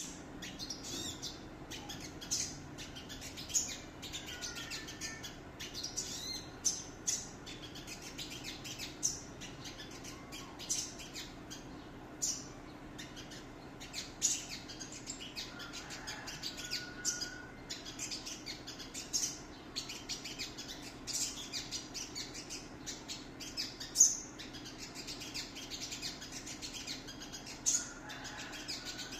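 A bird calling in short, sharp chirps at irregular intervals, a few every second, with now and then a brief whistled note; the loudest chirp comes about twenty-four seconds in.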